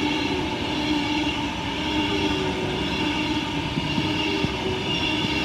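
Class 390 Pendolino electric multiple unit running through the station, a loud steady rumble with several held tones over it.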